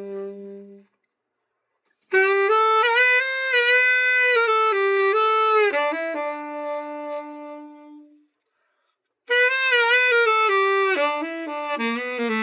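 Selmer Mark VI tenor saxophone played in short melodic phrases with breaks of silence between them: a held low note fading out, then a phrase of moving notes, a pause of about a second, and another phrase that ends on a held low note.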